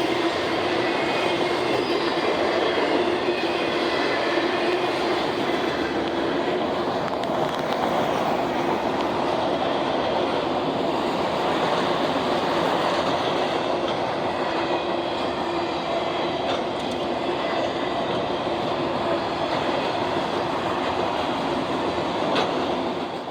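Freight train on the Norfolk Southern line rolling steadily past: a continuous rumble of cars on the rails, with faint high squealing from the wheels.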